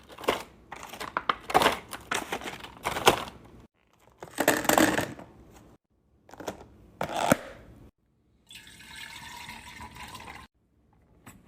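Food containers and plastic packaging being handled: a run of crinkling, rustling and light clicks in separate bursts. Near the end comes about two seconds of steady liquid pouring or running water.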